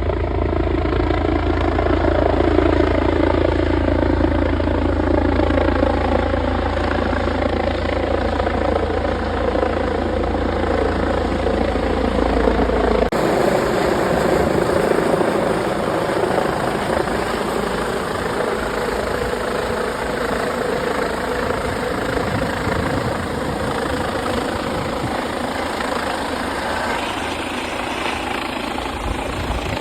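Helicopter engine and rotors running steadily, with its pitch wavering gently in the first half. The sound changes abruptly about halfway through.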